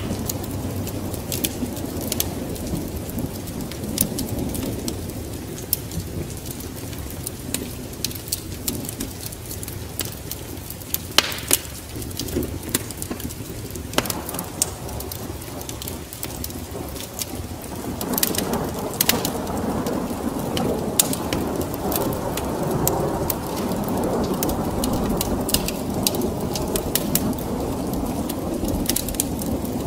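Steady rain with scattered sharp crackles, and a low rumble of thunder that swells from a little past halfway and holds.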